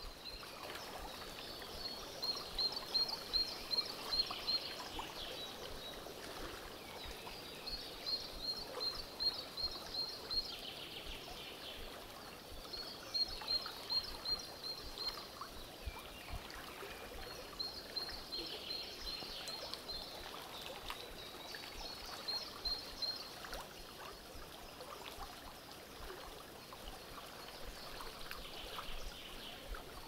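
A bird singing short runs of evenly spaced high notes, each run about one and a half seconds long, repeated every four to five seconds, over the steady rush of a small creek's flowing water.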